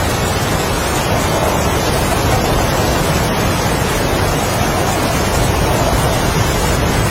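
Heavy rain and strong wind: a steady, dense rushing hiss with no separate drops or gusts standing out.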